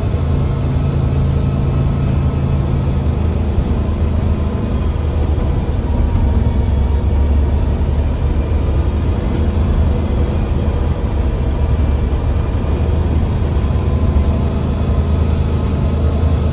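Mercedes-Benz bus diesel engine running steadily under load, heard from inside the driver's cabin; its note shifts about three seconds in.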